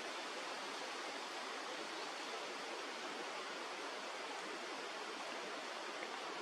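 Steady rushing of flowing river water, an even hiss with no breaks or separate sounds.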